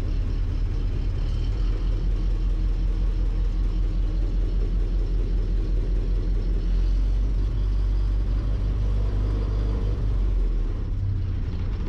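1955 Willys CJ5's F134 four-cylinder engine running steadily just after a cold start, choke out, settling to a slightly lower idle near the end.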